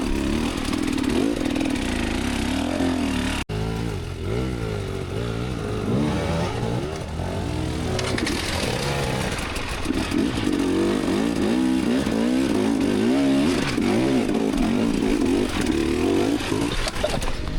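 Enduro dirt bike engine revving hard, its pitch rising and falling again and again as the throttle is worked on a steep climb.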